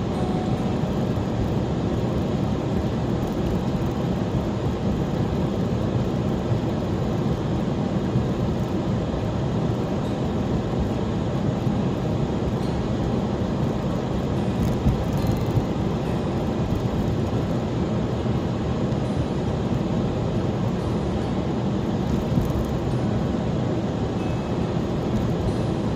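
Steady vehicle running noise while driving: a constant low rumble of engine and tyres on the road.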